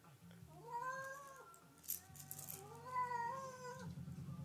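Domestic cat meowing twice, long drawn-out meows that rise and fall in pitch, the second one longer. These are the calls of a cat stuck up on a high perch that it won't jump down from.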